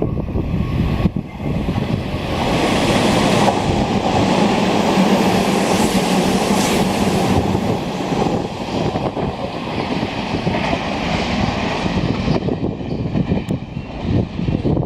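Hanshin 9300 series express train passing through the station at speed without stopping, its wheels clicking over the rail joints. The sound swells about two seconds in, is loudest for the next few seconds with a steady low hum underneath, and eases off near the end.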